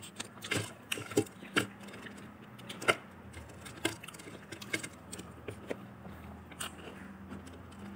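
Eating sounds: scattered crisp crunches and mouth clicks of people biting and chewing fried chicken, about one or two a second.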